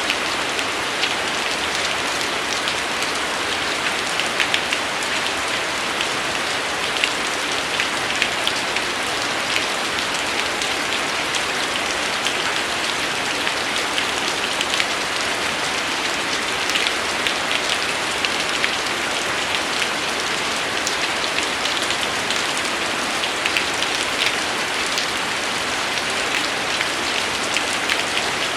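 Steady rainfall, with many individual drops ticking on a surface over an even hiss.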